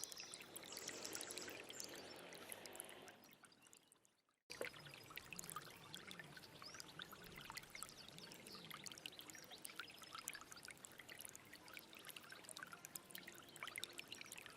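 Small stream trickling and splashing over rocks, a steady rush with many little splashes. It fades away about three seconds in, is gone for a moment, then comes back in abruptly about four and a half seconds in.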